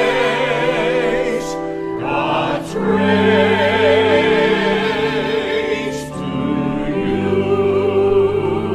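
Church choir singing a slow sung benediction with accompaniment: long held notes with vibrato, in phrases broken by short breaths about two and a half and six seconds in.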